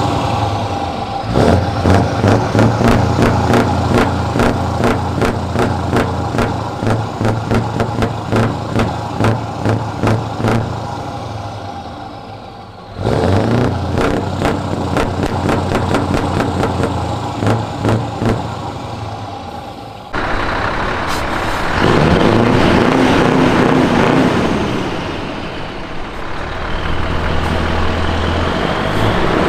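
Scania R500 V8 truck engines with open straight exhaust pipes revved in quick repeated blips, about two a second, in two runs. These are followed by a steadier engine note that swells, then fades as its pitch slides.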